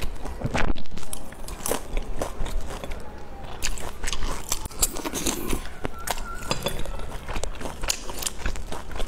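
Close-up eating sounds of a person biting into and chewing pan-fried dumplings, with many short, irregular clicks and crunches.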